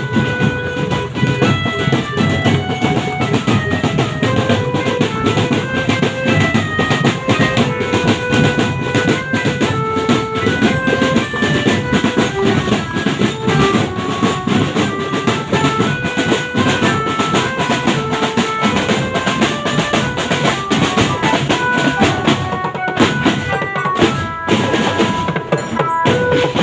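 Barongan accompaniment music: a Javanese gamelan-style ensemble with busy drumming and a melody of short pitched notes stepping up and down over it.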